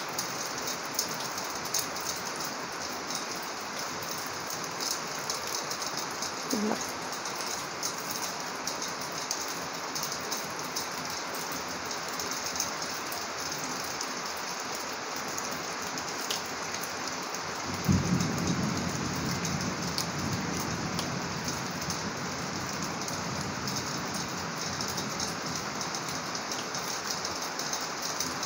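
Heavy rain falling steadily in a continuous hiss. About two thirds of the way through, a sudden clap of thunder breaks in and rumbles away over a few seconds.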